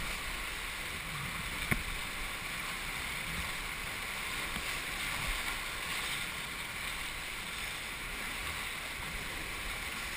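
Steady rush of river water around a paddled raft, with one sharp knock a little under two seconds in.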